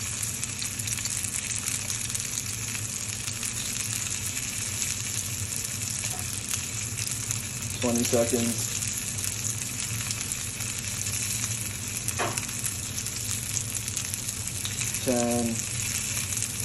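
Ahi tuna steak searing in oil in a nonstick frying pan over high heat, sizzling steadily. Twice a short sound from a person's voice rises briefly above the sizzle.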